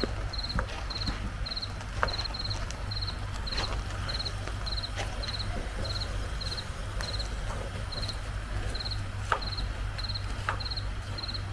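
Cricket chirping at night: a regular run of short, high, trilled chirps, about two to three a second, with a few faint clicks over a low steady background rumble.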